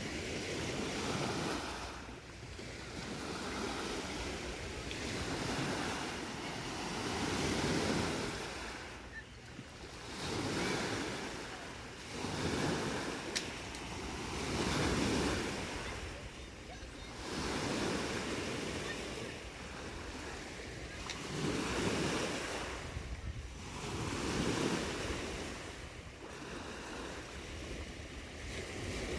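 Small lake waves washing onto the shore of Lake Huron, each swell rising and falling about every two seconds, with wind rumbling on the microphone.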